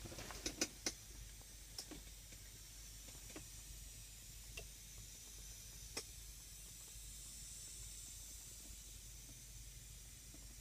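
Quiet cab interior: a faint steady hiss with a few light clicks and taps, a quick cluster of them about half a second in and scattered single ones after.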